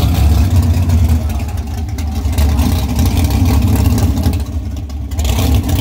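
Car engine idling, a steady low rough note that dips briefly about five seconds in.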